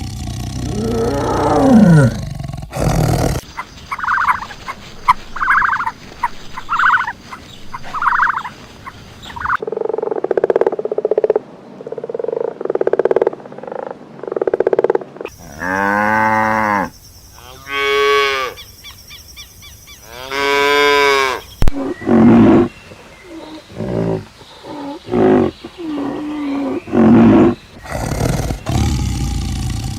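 A series of different animals' calls, one kind after another with abrupt changes every few seconds: a falling call at the start, a run of short repeated calls, lower pulsing calls, then long drawn-out calls that rise and fall, and finally shorter mixed calls.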